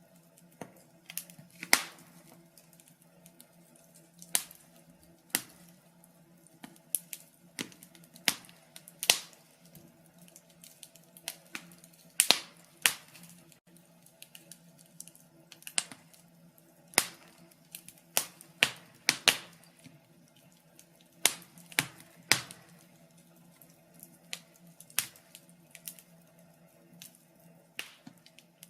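Wood fire crackling in a fireplace: irregular sharp pops and snaps, sometimes in quick clusters, over a faint steady low hum.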